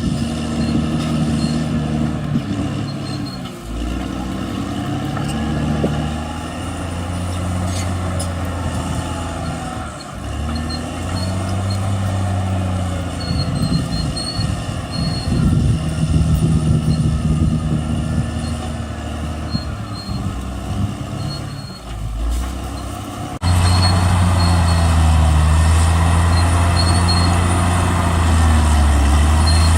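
Caterpillar D6R XL bulldozer's diesel engine running under working load, its note rising and falling. About three-quarters of the way through the sound jumps abruptly to a louder, steadier engine note.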